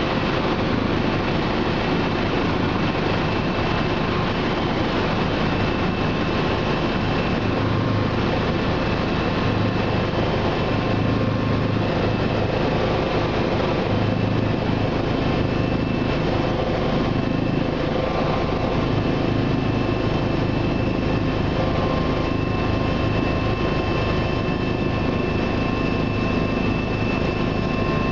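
Bell 429 twin-turbine helicopter in steady flight, heard from inside the cabin: a constant engine and rotor drone with a few steady whining tones above it.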